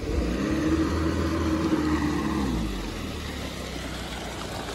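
Toyota Dyna truck's engine running. Its pitch rises and then falls back over the first couple of seconds, then it runs steadily.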